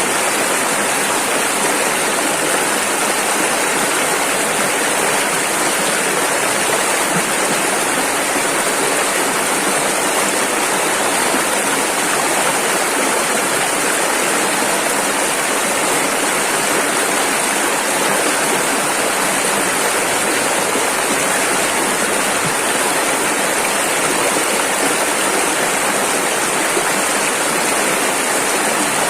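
Rushing river water: a steady, loud rush of rapids with no let-up.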